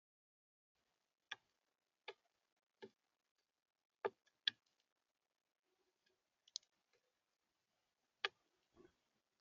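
Sharp single taps and clicks at uneven intervals, about seven in all, from visitors knocking against a bird feeder.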